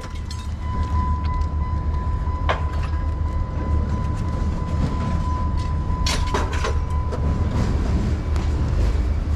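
Steady low engine rumble with a constant high-pitched whine, and a few short knocks about two and a half and six seconds in.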